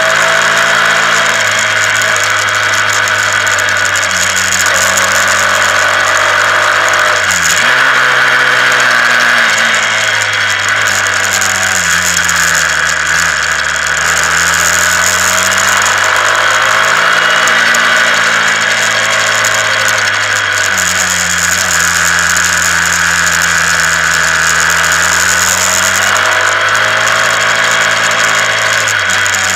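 Honda CBR125R's single-cylinder four-stroke engine running under way, its note rising and falling with the throttle through the bends, with a sudden drop in revs about a quarter of the way in. Wind rushes steadily over the microphone throughout.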